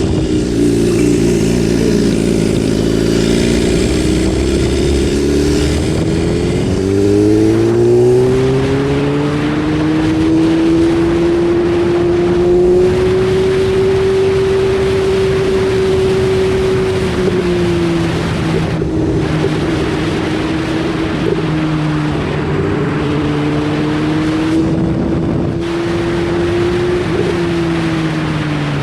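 BMW S1000RR inline-four engine under way. Its pitch climbs over the first third as it is opened up, holds steady, dips and picks up again, then drops away near the end as the throttle closes. There is steady wind rush throughout.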